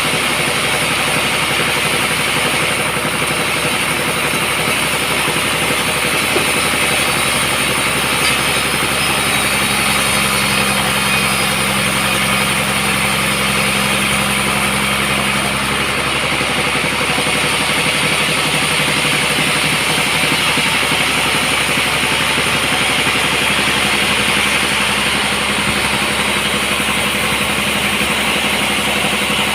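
Sawmill machinery running with a steady, continuous engine-like drone; a low hum strengthens for several seconds in the middle, then fades.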